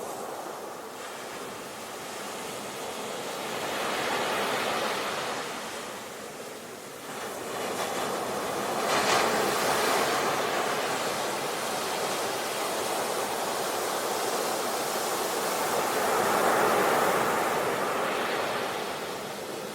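Sea waves breaking and washing on the shore, the surf swelling three times and falling back between, the middle swell the loudest.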